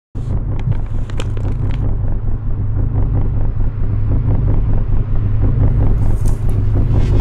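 Loud, steady low rumble of outdoor noise that starts suddenly just after the opening silence, with a few sharp clicks in the first two seconds and a brief hiss about six seconds in.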